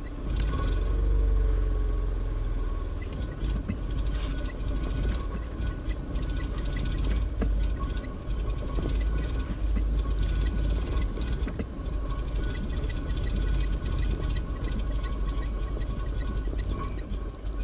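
1.2-litre car engine during a hard cold start, turning over and running unevenly at low speed while being coaxed with the throttle and choke, with a steady low rumble and a faint regular ticking.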